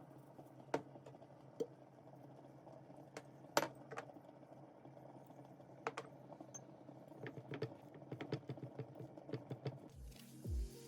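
Quiet kitchen food-prep handling: scattered light clicks and taps of utensils and ingredients, turning into a quicker run of small taps in the last few seconds, over a faint steady hum.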